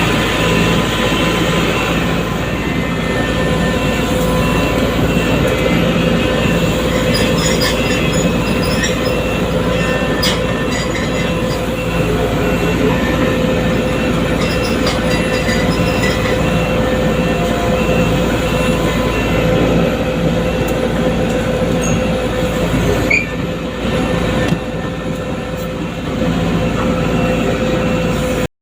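Excavator working, its engine running loud and steady with a constant whine over a low rumble.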